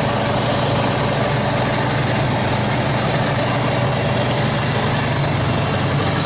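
A 1986 Chevy K-10 pickup's engine idling steadily.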